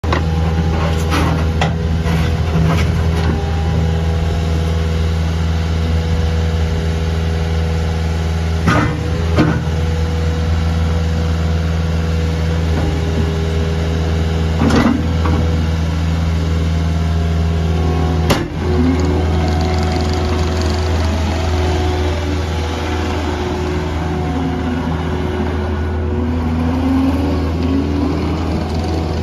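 Skid steer loader's 74 HP Kohler diesel engine running steadily, with a few sharp metallic clunks scattered through, the loudest about two-thirds of the way in.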